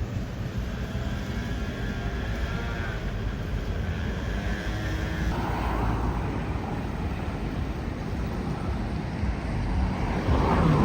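Seafront street ambience: a steady low rumble of passing traffic, with faint voices of passers-by in the first half and a louder swell of noise near the end.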